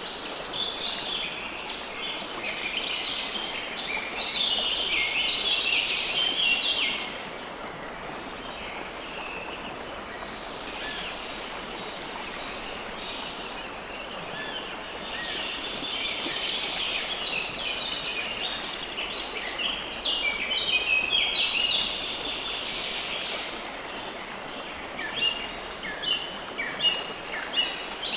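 A chorus of songbirds, many short rapid chirps and trills, busiest in two long spells and thinning to separate chirps near the end, over a steady rush of running water.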